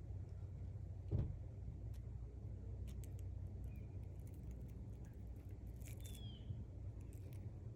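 Outdoor background with a steady low rumble, a single thump about a second in and faint scattered clicks. A bird gives a short falling chirp about six seconds in and again near the end.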